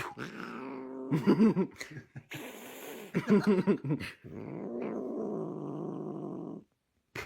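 A cat yowling: two loud, wavering calls about one and three seconds in, then a steadier low drone for about two seconds.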